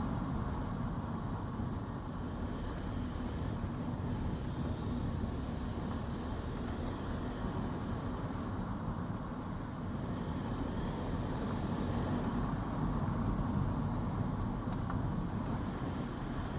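A car being driven along a road: steady tyre and engine noise, a low, even rumble.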